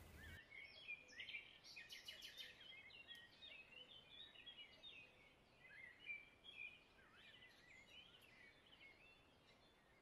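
Faint birdsong: many short chirps, trills and quick gliding notes from several birds, dying away about nine seconds in.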